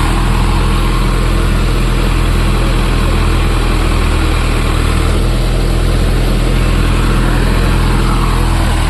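Tractor engine idling steadily, an even low drone that holds the same speed throughout.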